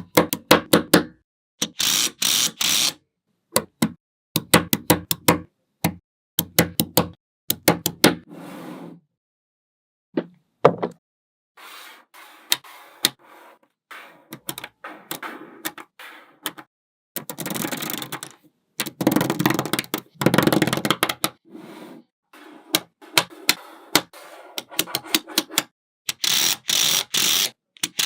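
Small neodymium magnet balls clicking together, in quick runs of sharp clicks, with stretches of rattling as clusters of balls are rolled and snapped into place.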